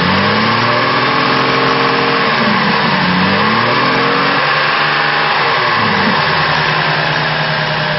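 2005 Chevrolet Trailblazer's 4.2-litre inline-six engine running and being revved, its pitch rising and falling two or three times.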